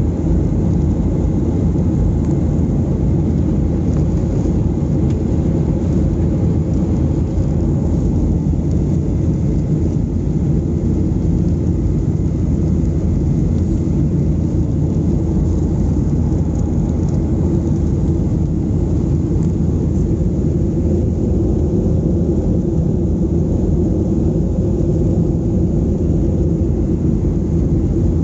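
Steady low rumble of engine and airflow noise inside the cabin of a Boeing 737-800 in flight.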